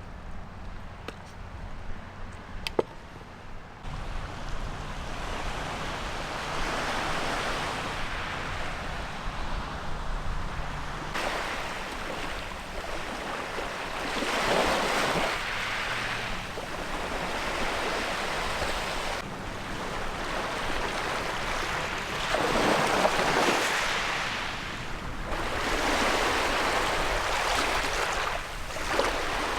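Ocean surf washing onto a beach, swelling and fading in slow surges every several seconds. The first few seconds are quieter, with a few small clicks.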